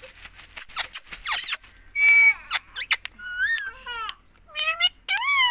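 Indian ringneck parakeet making a run of short, high, squeaky calls with bending pitch, after a few sharp clicks at the start, typical of a talking parrot's chatter.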